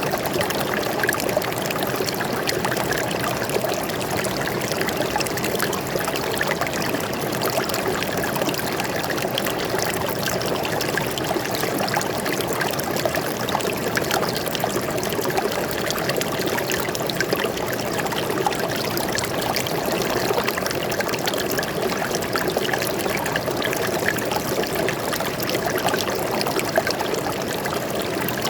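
A stream flowing steadily over rocks, a continuous splashing and trickling rush of water.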